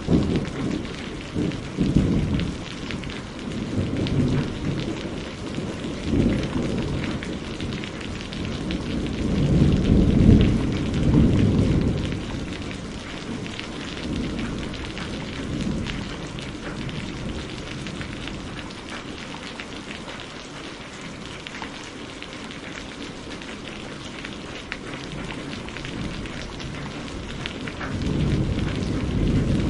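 Steady rain falling, with thunder rolling several times underneath, loudest about ten seconds in.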